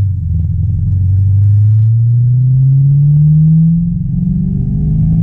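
Supercharged BMW E92 M3 V8, heard from inside the cabin, accelerating under load. Its engine note climbs steadily for about four seconds, drops briefly as the car shifts up a gear, then starts climbing again.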